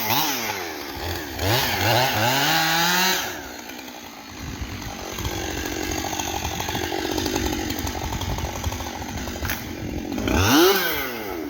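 Gas chainsaw revving, its engine speed swinging up and down several times. About three seconds in it drops back to a lower, steadier running for several seconds, then revs up once more near the end.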